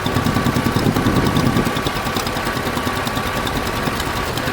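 Antique-style farm tractor engine running steadily at low speed, a fast, even chugging, with a thin steady whine above it for much of the time.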